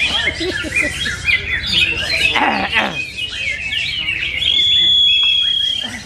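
Birds chirping and twittering in quick short notes, with one long steady whistle held for about a second near the end. Voices murmur underneath.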